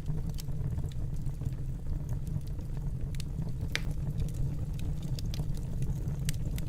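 Wood fire burning in a fireplace: a steady low rumble of flame with frequent small crackles and pops, one sharper pop a little past halfway.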